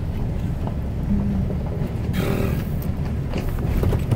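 Truck driving slowly over a rough, rutted dirt road, a steady low engine and road rumble, with a louder clatter about two seconds in and a few sharp knocks and rattles near the end as it jolts over the bumps.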